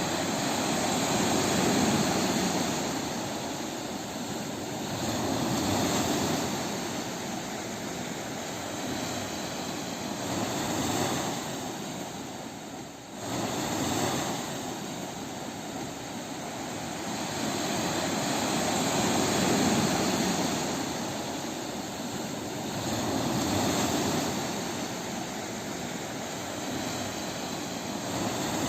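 Sea waves breaking on a beach: the surf swells and falls back every four to five seconds, with a brief lull about halfway through.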